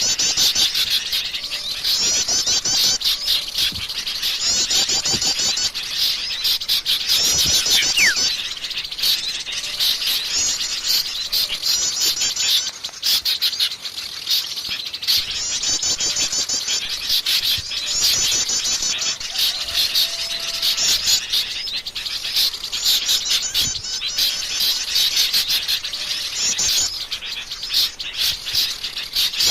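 Noisy chorus of small songbirds chirping and chattering, with a rapid, high chattering call of about a second repeating every two to three seconds: a bird-lure recording meant to draw in small birds.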